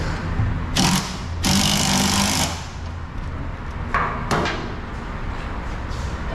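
Exhaust-shop work on a car: a power tool runs in a short burst and then a longer burst of about a second, followed by two sharp metal knocks about four seconds in, over a steady low hum.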